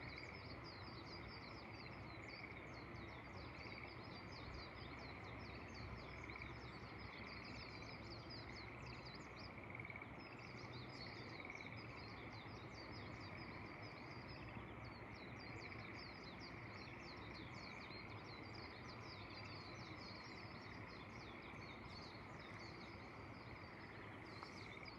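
Faint chorus of frogs and birds over a steady background hiss: rapid high chirps keep overlapping throughout, with a lower call pulsing at a regular pace underneath.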